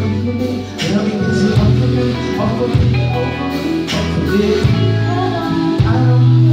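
Live band playing an instrumental passage without lead vocals: guitar over long, held low bass notes, with regular drum strikes.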